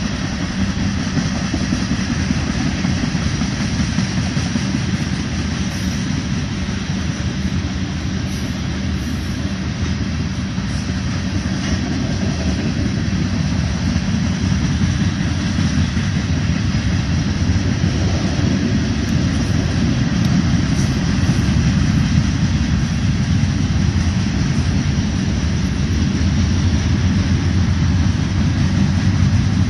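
Freight train cars of a BNSF manifest train rolling past, a steady rumble and clatter of steel wheels on rail, getting gradually a little louder in the second half.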